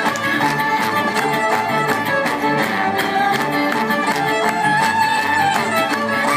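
Romanian-inspired gypsy folk band playing live, with a violin carrying the melody over a steady beat from guitar and double bass.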